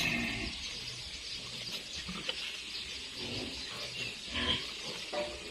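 Piglet squealing while it is held for castration, with a louder squeal about four and a half seconds in.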